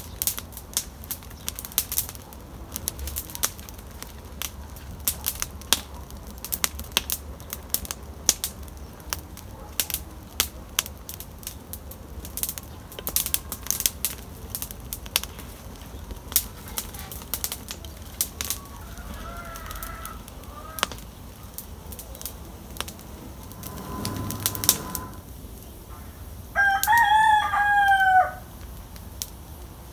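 Campfire crackling with frequent sharp pops. Near the end a rooster crows once, loud and clear; a couple of fainter fowl calls come a little earlier.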